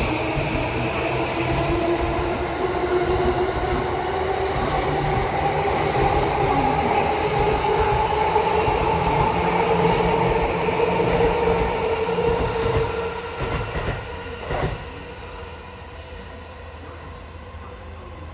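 JR East E235-1000 series electric train pulling away, its inverter-driven traction motors whining in several tones that rise slowly in pitch as it gathers speed, over the rumble of the wheels. About 14 s in the sound falls away, with one sharp clack just before it settles.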